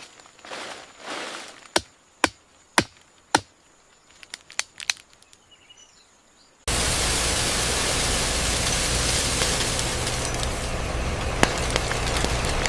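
A few sharp clicks and knocks over quiet. Then, about halfway through, loud steady factory machinery noise with a low hum starts suddenly.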